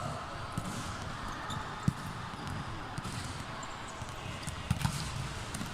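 Basketball bouncing on a gym floor a few times over steady background noise of the hall, with one sharp bounce about two seconds in and two quick ones near the end.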